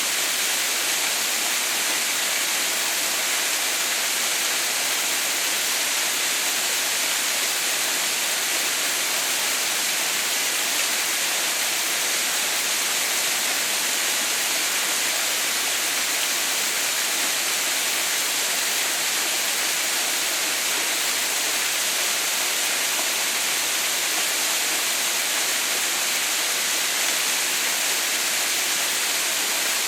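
Haha no Shirataki waterfall, water falling steadily: an even, unbroken rush with a strong hiss in the highs.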